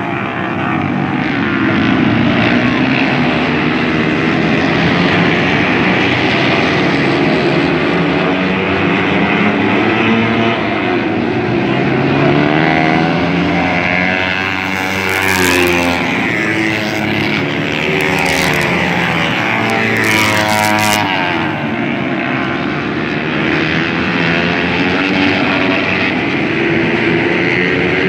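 Several dirt bike engines racing, revving up and down so their pitch keeps rising and falling, with a few short, sharp noises a little past the middle.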